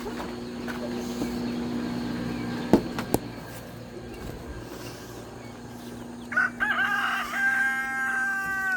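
A rooster crows once near the end: a few broken notes, then one long held note. A steady low hum runs beneath it, and two sharp knocks come about three seconds in.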